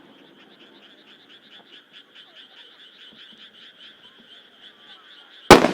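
Frogs calling in a steady chorus of short, rapidly repeated croaks, several a second. Near the end a firework shell bursts with a single sudden loud bang.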